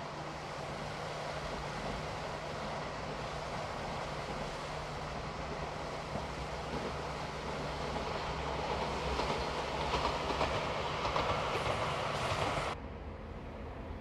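Locomotive-hauled inspection train running along the line towards the listener, its engine hum steady and the wheel-on-rail noise growing louder as it nears. The sound cuts off suddenly near the end.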